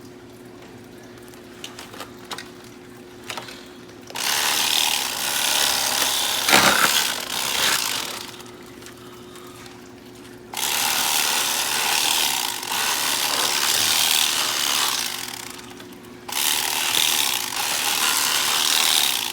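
Electric fillet knife running in three bursts of a few seconds each, its blades buzzing as they saw through the deep-fried turkey, with a knock from the cutting board partway through the first burst.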